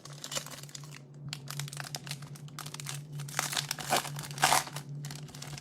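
Wrapper of a baseball card pack crinkling and tearing as it is opened: a run of irregular crackles, loudest a little past the middle.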